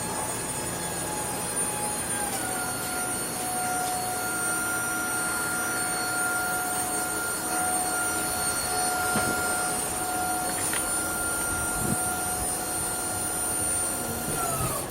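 A machine's steady whine, two tones over a noisy hum, dropping slightly in pitch about two seconds in and cutting off abruptly near the end.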